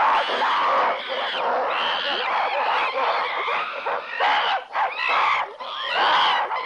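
A troop of apes screaming and hooting: many overlapping shrill calls that arc up and down in pitch.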